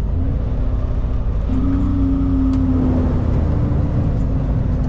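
Kenworth K200 road train's Cummins X15 six-cylinder diesel running steadily under a heavy load of about 70 tonnes, a constant low drone with a steady hum joining about a second and a half in.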